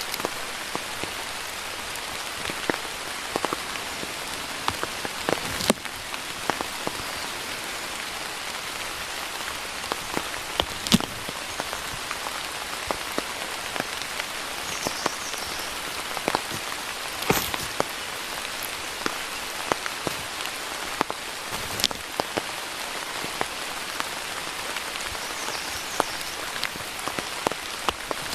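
Steady rain falling, with frequent sharp taps of single drops landing close by, a few of them louder.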